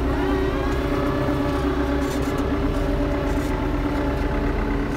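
Farm tractor's diesel engine running steadily at constant revs while the tractor fails to make headway in deep mud.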